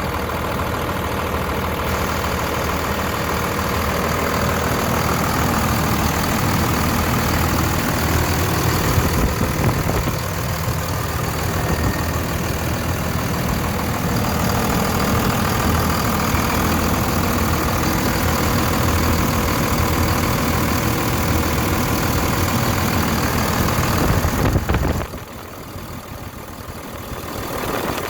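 2001 Dodge Ram 2500's 5.9-litre Cummins 24-valve inline-six turbo diesel idling steadily; the sound drops in level and dulls a few seconds before the end.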